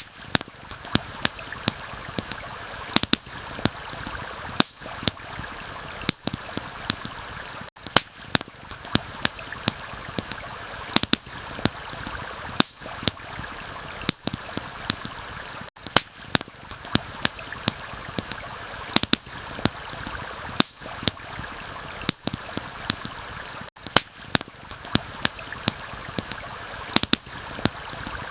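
Campfire crackling with frequent sharp, irregular pops over a steady rush of stream water.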